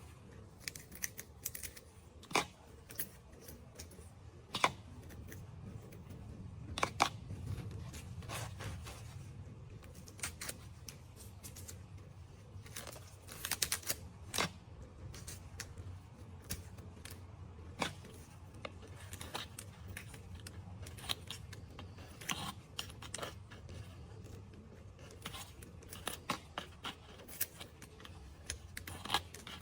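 Irregular small clicks and snips, as of hands at close work, over a low steady hum.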